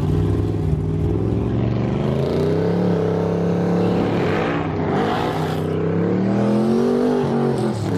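Drag car engine revving, its pitch rising and falling several times with a louder, rougher swell about halfway through; it sounds healthy.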